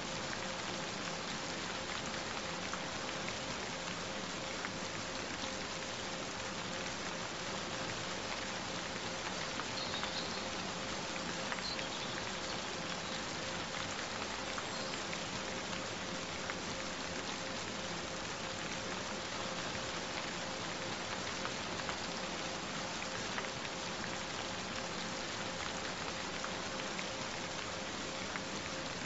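Steady rainfall, an even rushing patter with scattered drop ticks, over a faint constant tone just above 500 Hz.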